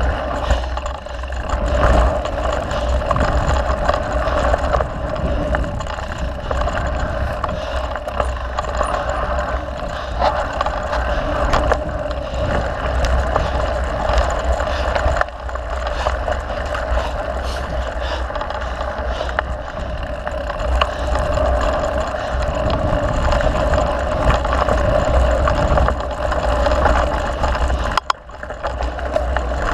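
Mountain bike being ridden along a dirt trail: a steady rush of wind and tyre noise with occasional sharp knocks and rattles. The noise dips briefly near the end.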